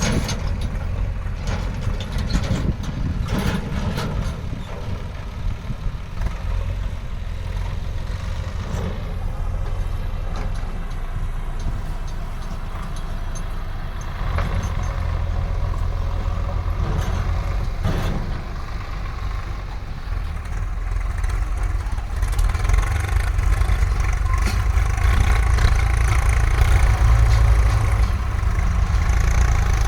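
Heavy diesel engine running steadily, with a few knocks and clanks. It grows louder about two-thirds of the way through.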